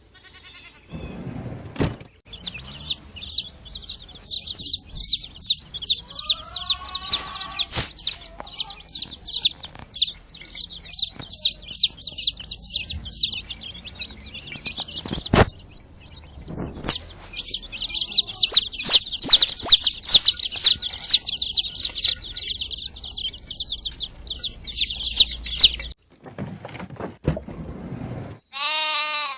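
Chickens: a dense, continuous high peeping of many chicks, with a few lower hen clucks mixed in. The peeping breaks off briefly midway and stops abruptly near the end.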